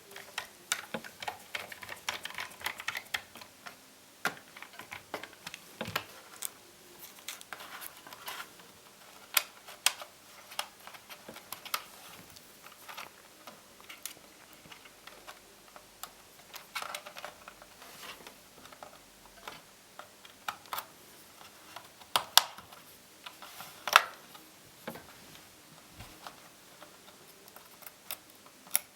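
Irregular small clicks, taps and knocks of hands working on a laptop, handling its parts, screws and tools, with two louder sharp knocks in the last third.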